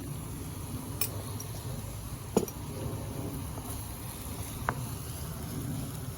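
Three light clinks of a utensil against a pan while onions are cooked in oil, the middle one the loudest, over a steady low rumble.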